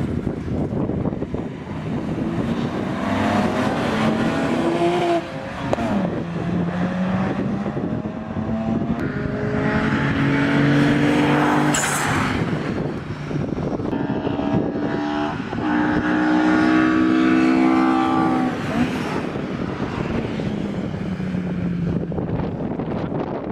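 Cars being driven hard on a race circuit, engines revving and rising in pitch as they accelerate past, with breaks at the gear changes. A single sharp crack comes about halfway through.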